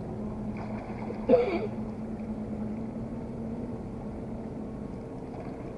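Boat motor running steadily with a low, even hum. About a second in, one short voice-like call cuts briefly across it.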